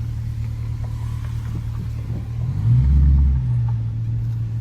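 Dodge Challenger R/T's 5.7-litre HEMI V8 running under way, a steady low rumble that swells louder for about a second partway through as the throttle opens, then settles back.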